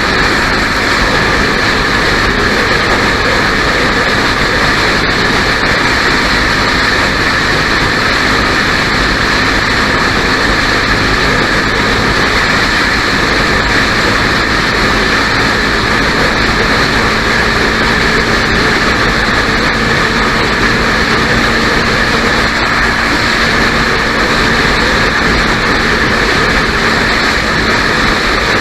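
Triumph Scrambler 400 X motorcycle cruising at steady highway speed: the engine running evenly under steady wind and road noise, with no change in pace.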